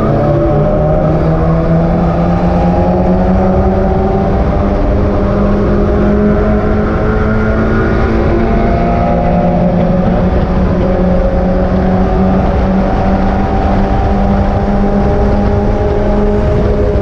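Mazda MX-5 race car's four-cylinder engine running hard at high revs, its pitch holding nearly steady with small changes and a brief drop about halfway through.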